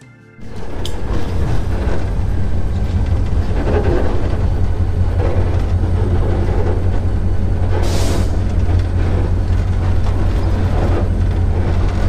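Diesel locomotive running as the train rolls into a station, heard from the front of the engine: a steady low engine hum with rail noise, and a brief hiss about eight seconds in.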